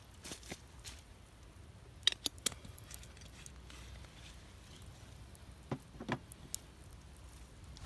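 Wood fire crackling: a few sharp pops and snaps, a cluster about two seconds in and more around six seconds in, over a low steady background.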